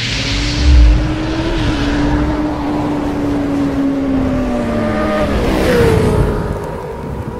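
Motorcycle engine sound effect: a rushing whoosh and a deep boom about a second in, then an engine note that slowly drops in pitch and revs back up near the end.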